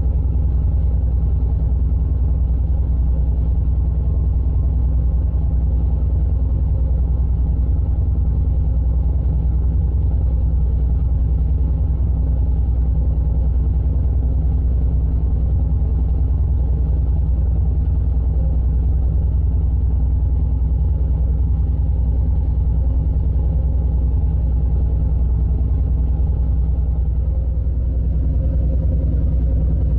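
River tug's diesel engine running steadily at constant speed, a loud low rumble with a steady hum.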